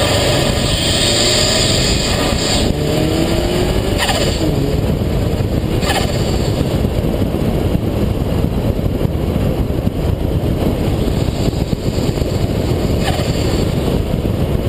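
Subaru WRX STI's turbocharged flat-four running through an aftermarket exhaust, rising in revs under acceleration for the first few seconds, then dropping at a gear change. Short bursts of turbo flutter come at the lifts, about four seconds in and again around six seconds in, before the car settles into steady cruising with road and wind noise.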